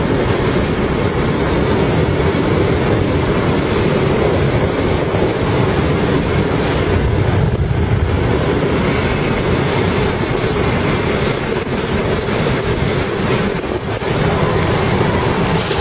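Steady rushing noise inside a light aircraft's cockpit as it glides down for a forced landing after an engine failure.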